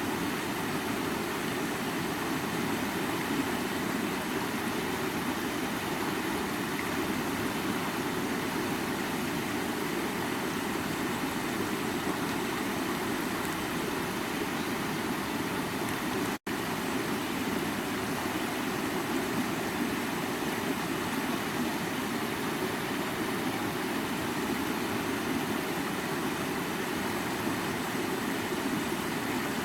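Creek water running steadily, an even rushing noise, which cuts out for an instant about halfway through.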